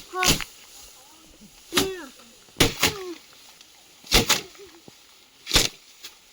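A run of sharp strokes, about one every second or so, some in quick pairs.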